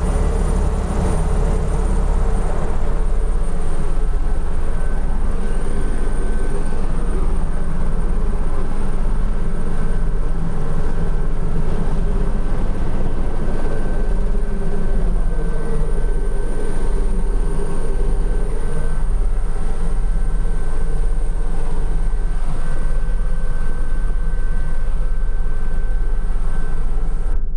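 Helicopter in flight: steady engine and rotor noise with a regular low beat from the blades and a thin steady whine above it.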